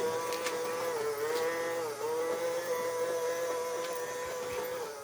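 Small robot vacuum cleaner running: a steady electric motor whine that dips in pitch briefly a couple of times, with a few faint clicks.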